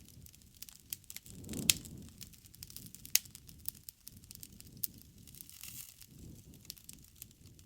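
Wood fire burning, crackling and popping irregularly over a low rumble, with two louder pops, one about a second and a half in and another about three seconds in.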